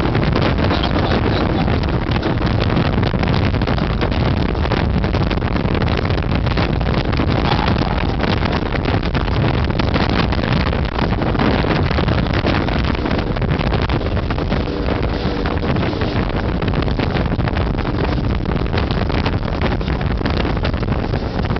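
Jet boat's engine running steadily, with wind buffeting the microphone.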